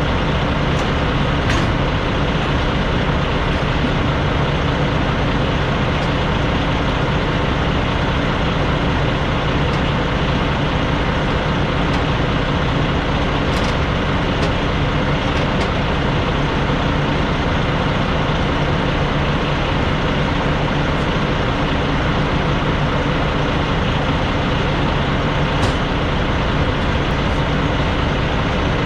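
Steady engine drone and road noise inside a semi-truck's cab on the move, holding an even level throughout.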